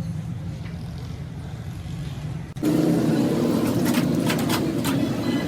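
An engine running steadily with a low rumble. About two and a half seconds in, the sound cuts abruptly to a louder run with sharp clicks and knocks over it.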